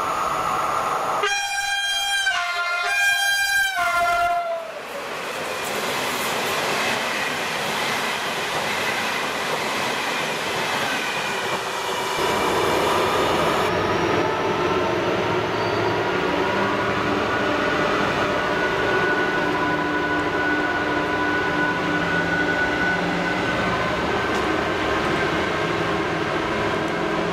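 A train horn sounds about a second in: two blasts with stepping pitch. A passing train's rolling rumble follows. From about twelve seconds in, a Class 66 diesel locomotive with its EMD two-stroke V12 runs through hauling coal wagons, its engine drone steady over the rumble of the wagons on the rails.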